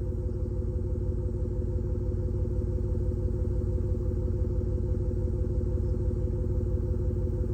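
Electronic Mercedes-AMG S63 exhaust note from a THOR exhaust-speaker system on a Toyota Prius PHV, a steady low pulsing drone at idle.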